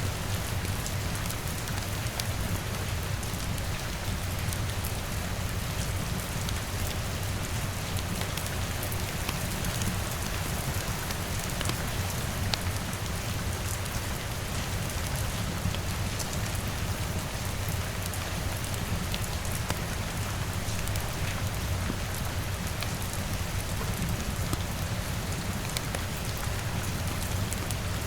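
Steady rain on a window in an ambience mix, with many small sharp ticks scattered through it and a low steady rumble underneath.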